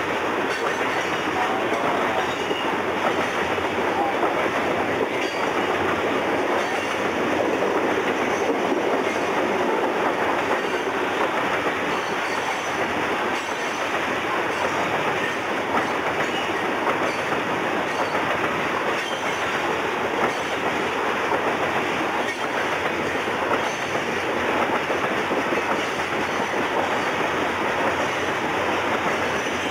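The cars of a loaded coal train rolling steadily past: a continuous noise of steel wheels on rail.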